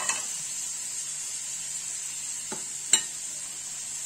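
Diced meat with onions, peppers and freshly added chopped tomato sizzling in a frying pan on a gas burner. A wooden spoon stirs the pan, knocking against it a few times; the sharpest knock comes about three seconds in.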